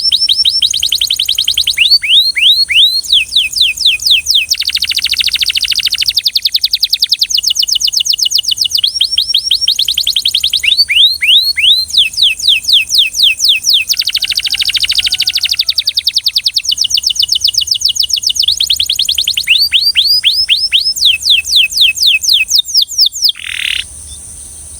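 Belgian canary singing: long runs of quick, repeated downward-sweeping notes alternating with fast rolling trills, over a steady high hiss. The song stops about a second before the end.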